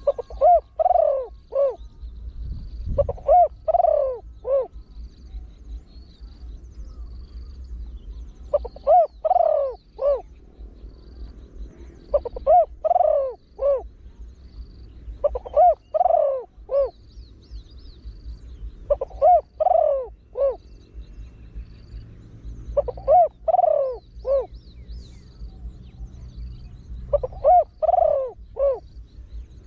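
Spotted dove cooing: the trained bird's short call of three or four notes is repeated eight times, about every three and a half seconds.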